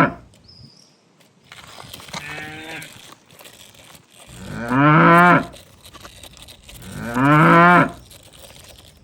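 A recorded cow's moo played over and over, the same long low call about every two and a half seconds, three times. A shorter, higher call comes about two seconds in.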